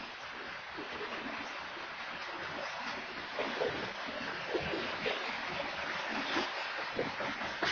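Freight train of covered hopper cars rolling past: a steady rushing noise of steel wheels on rail, with irregular clacks that grow louder and more frequent from about three seconds in.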